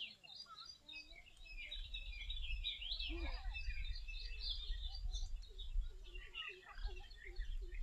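Several birds chirping and calling in a busy, overlapping chorus, over a low rumble that sets in about a second and a half in.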